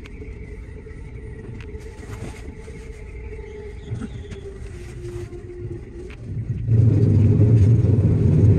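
JR 207 series electric train running, heard from the driver's cab: a steady rumble with a faint whine, which about seven seconds in jumps to a much louder, heavy rumble.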